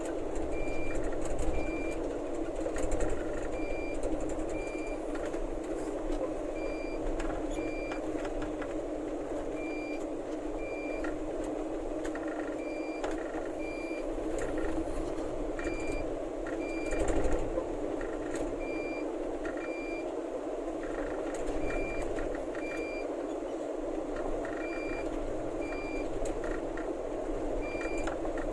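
Truck reversing alarm beeping in pairs, two short high beeps about a second apart repeating every three seconds, over the steady running of the truck's engine.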